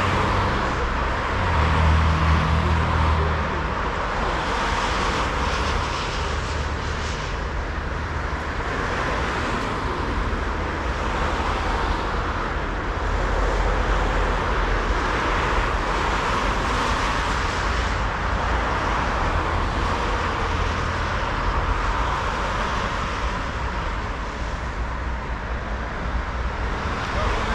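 Steady city traffic noise: vehicles running past in a continuous wash, with a low engine hum swelling about two seconds in and again around the middle.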